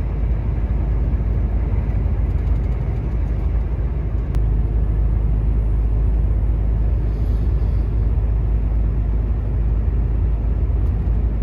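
Steady low rumble inside a Volvo truck's cab while driving on the highway: engine and road noise, with a strong crosswind blowing. A single light tick about four seconds in, after which the rumble grows slightly louder.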